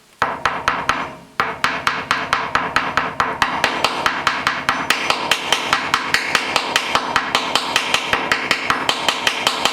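Hammer tapping rapidly and steadily, about five blows a second, with a metallic ring, driving a tight-fitting part of a hydraulic crane cylinder into place.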